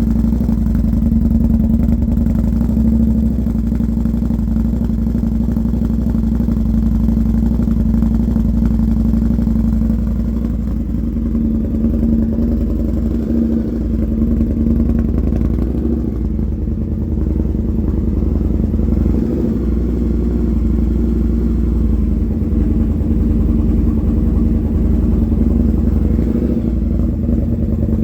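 Indian FTR 1200's V-twin engine running steadily at idle through a Toce aftermarket exhaust, on its first run with the Lloydz V6 tune.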